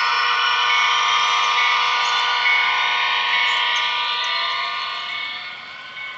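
HO scale model train running past close by, with a high, many-toned whine from its wheels and running gear that swells, holds, then fades near the end as it moves away.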